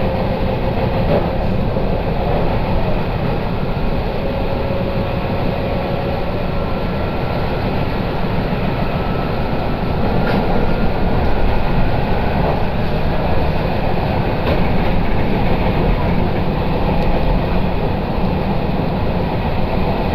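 Steady running noise inside a moving electric train carriage: a continuous low rumble of wheels on rail. A faint thin whine sounds in the first few seconds, and a few light ticks come through now and then.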